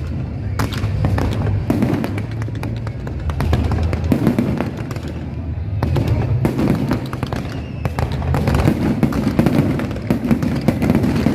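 Fireworks display going off: a continuous run of bangs and crackling bursts, over loud music with a steady bass.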